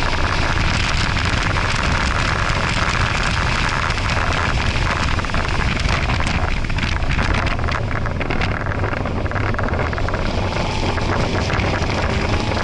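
Ford Focus RS's 2.3-litre turbocharged four-cylinder engine driven at speed, heard inside the cabin under heavy wind and road noise. The rushing noise eases for a few seconds past the middle.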